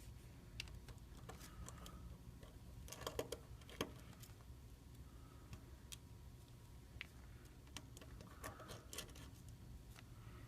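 Faint, scattered clicks and taps of tiny phone screws and a small screwdriver being set down on a magnet, with little clusters of clicks about three seconds in and again near the end.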